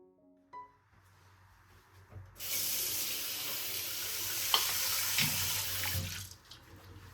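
Kitchen tap running into a sink for about four seconds, turned on suddenly and shut off, with a few light knocks while the water runs.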